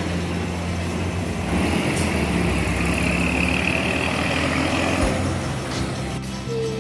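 Tour bus engine idling with a steady low drone. A higher hiss rides over it for a few seconds in the middle.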